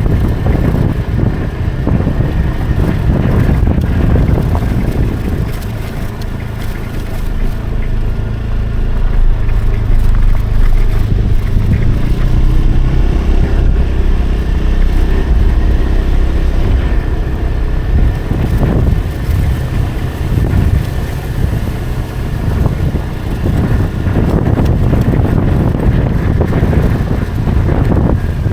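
Motorcycle engine running steadily as it is ridden along a road, with wind rumbling over the microphone.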